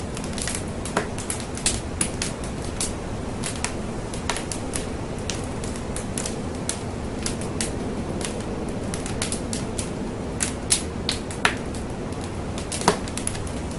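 Wood fire burning in a fireplace: irregular sharp crackles and pops over a steady low hiss of the flames, with a few louder snaps in the second half.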